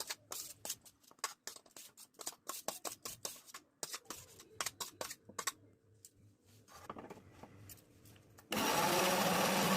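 Scraping and tapping of utensils against a mixer jar. About 8.5 s in, an electric mixer grinder starts up loudly and runs steadily, grinding fried onions and tomato into a paste.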